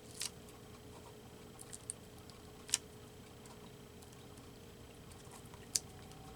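A few light clicks and taps from collage paper and materials being handled on a work table, the two sharpest about three seconds in and near the end, over a faint steady hum.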